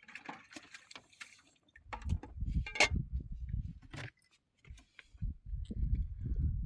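Wind buffeting the microphone in irregular low gusts, with scattered light metallic clinks and rattles.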